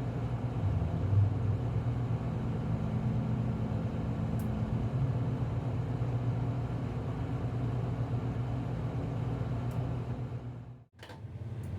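Tugboat's diesel engines running with a steady low drone, cutting out briefly near the end.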